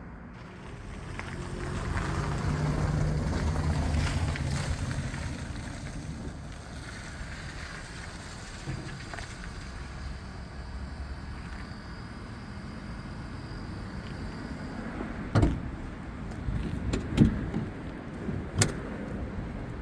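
2024 BMW i5 M60 electric sedan driving: tyre and road noise with a low hum swells over a few seconds, then eases to a steady level. Several sharp knocks sound near the end.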